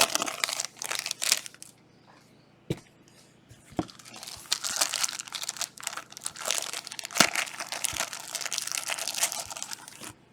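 Foil trading-card pack wrappers crinkling and tearing as Panini Prizm packs are opened and handled. The crinkling comes in bursts, dies down about two seconds in, and picks up again near the middle with a few sharp clicks.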